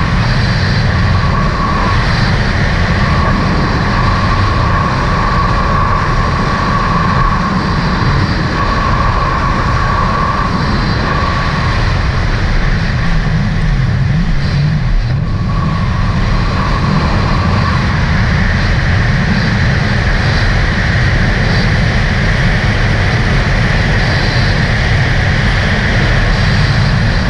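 A vehicle under way: steady engine and wind noise with a low rumble, and a faint whine that fades in and out several times.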